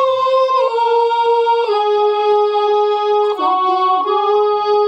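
Keyboard instrument playing the shabad melody alone between sung lines: a slow run of held notes, mostly stepping down in pitch, with a short higher figure about three and a half seconds in.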